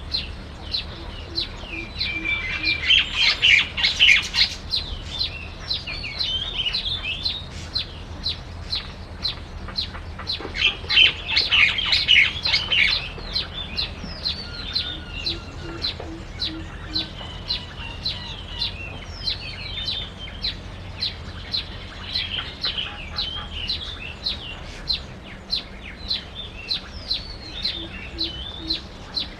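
Small birds chirping: short chirps repeated about two or three times a second, with two louder bursts of busy twittering chatter, about two seconds in and again about ten seconds in.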